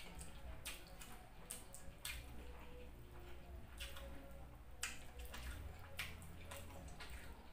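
Close-up wet chewing and mouth sounds of someone eating fried pork: soft smacks and clicks at irregular intervals, about one a second.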